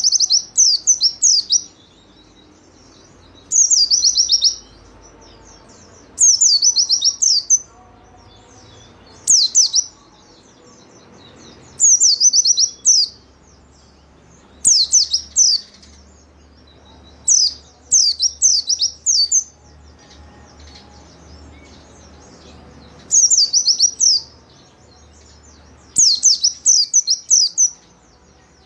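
White-eye (pleci) singing a lively song in short bursts of rapid, high chirps, one burst every two to three seconds, about ten in all.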